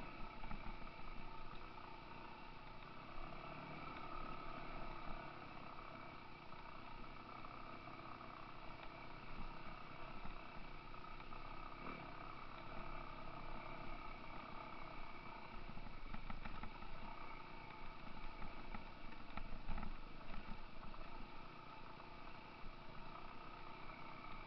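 Dirt bike engines running steadily as the bikes ride a rocky trail, with a few knocks and rattles from the bumps from about halfway on.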